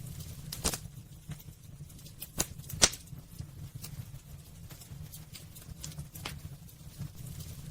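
Wood burning in a fireplace: irregular sharp crackles and pops over a low steady rumble, the loudest pop coming a little under three seconds in.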